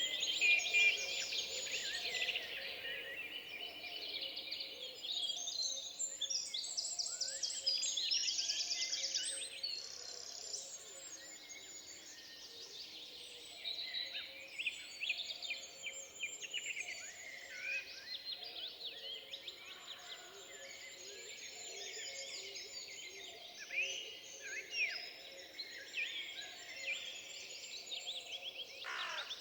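Several songbirds singing and chirping in a forest, overlapping calls with trills and fast runs of repeated notes.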